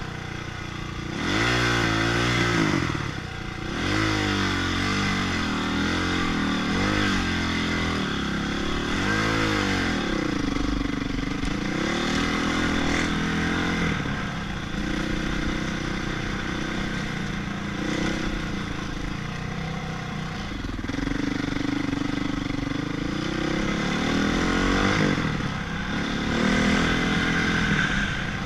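Honda CRF450 motocross bike's single-cylinder four-stroke engine, its pitch repeatedly climbing and falling with the throttle through a string of accelerations, steadier in the middle stretch.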